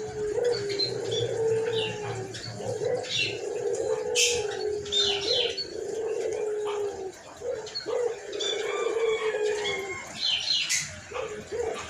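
White puter (domestic Barbary dove) cooing over and over in a hoarse voice: a run of long, low notes that sag slightly in pitch. Smaller birds chirp at a higher pitch in between, and two brief sharp rustles come about four seconds in and near the end.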